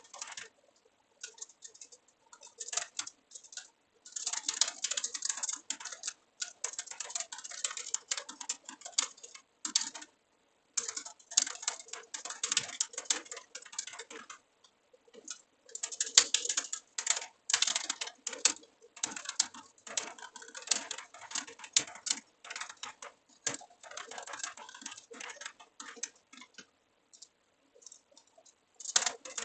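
Computer keyboard typing in fast runs of keystrokes, with the clicking stopping for a second or so several times between runs.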